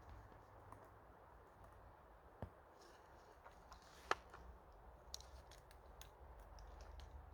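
Faint clicks and small handling taps of a trail camera being fitted to a tree, with two sharper clicks about two and a half and four seconds in, the second the loudest.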